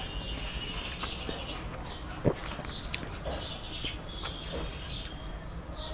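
Small birds chirping repeatedly in the background, with one sharp click a little over two seconds in while food is eaten by hand from a steel plate.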